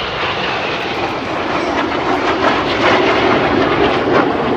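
BAE Hawk jet aircraft flying past, the broad rushing noise of their turbofan engines, growing a little louder toward the end.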